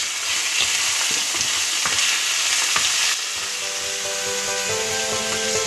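Diced chicken sizzling in hot olive oil with onion and garlic in a steel pot, stirred with a wooden spoon, with small clicks of the spoon against the pot. About three seconds in the sizzle drops and background music with steady notes comes in.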